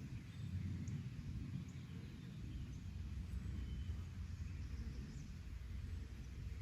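Outdoor countryside ambience: a fluctuating low rumble of wind on the microphone, with a few faint, short bird chirps.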